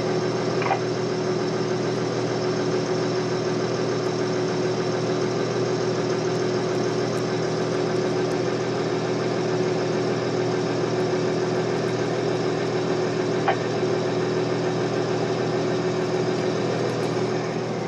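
Heavy diesel engine running steadily at a constant idle-like speed, with an even drone that neither rises nor falls.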